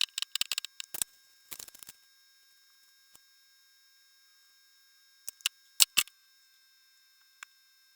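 Scattered sharp clicks and clinks of hand tools and parts being handled. There is a quick cluster in the first two seconds, then a few more single clicks around five to seven seconds in.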